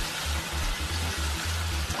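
Chopped onion and tomato paste frying in mustard oil in a nonstick pan, sizzling steadily as a spatula stirs it, over background music with a bass line.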